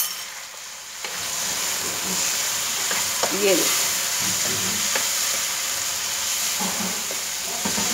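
Minced chicken with tomato sizzling in a wok while a wooden spatula stirs and scrapes it. The hiss picks up about a second in.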